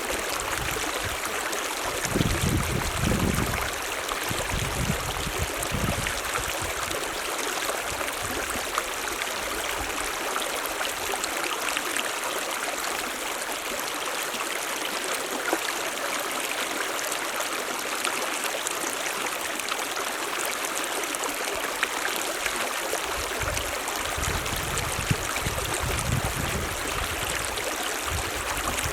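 Mountain stream running, a steady rush of water over rocks, with low rumbles a couple of seconds in and again near the end.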